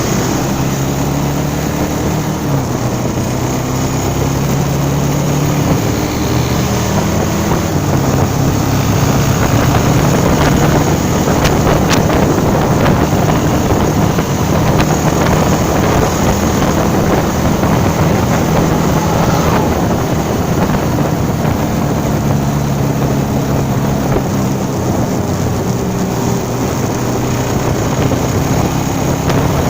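Motorcycle engine running under way, its pitch shifting a little as speed changes, with wind buffeting the microphone that grows stronger through the middle stretch.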